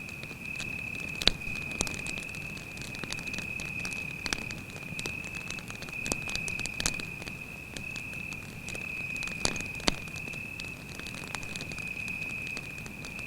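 Campfire crackling, with sharp pops about a second in, near four seconds, around six seconds and near ten seconds, under a cricket's continuous high trill.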